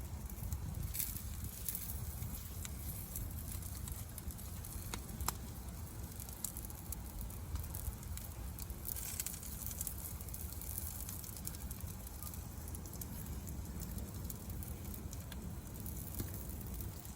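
Wood campfire crackling, with scattered sharp pops over a steady low rumble, as a pizza crust cooks in a cast iron pan set on it.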